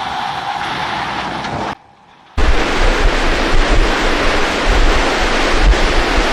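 Loud rushing of water with wind buffeting the microphone, starting after a brief cut about two seconds in; before the cut, a steadier hiss with a faint hum.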